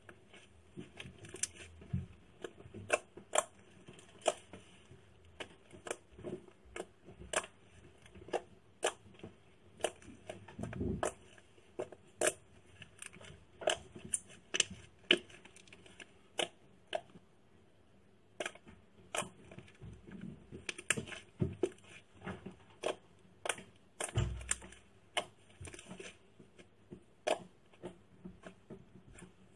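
Slime being pressed and worked by hand, making irregular sharp clicks and pops from trapped air, one or two a second, with a couple of low dull thuds.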